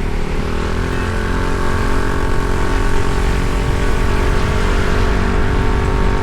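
Honda ADV 160 scooter's single-cylinder four-stroke engine running steadily under way, getting slightly louder through the stretch, with heavy wind and road rumble.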